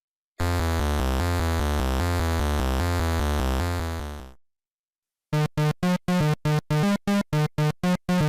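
Synthesized electronic sound effect: a steady low buzzing tone for about four seconds that fades away. After a short pause comes a fast run of short, beeping pitched tones, about four a second.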